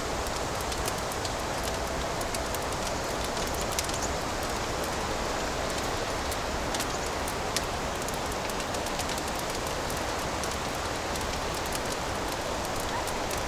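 Fireplace fire crackling: a steady hiss with scattered small pops and snaps, a couple of sharper ones about 4 and 7.5 seconds in.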